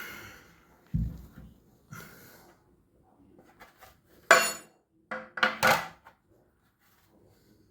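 Handling clatter: a series of separate knocks and clinks as hard objects are set down and moved, the loudest a ringing metallic clink about four and a half seconds in, followed by two quick knocks a second later.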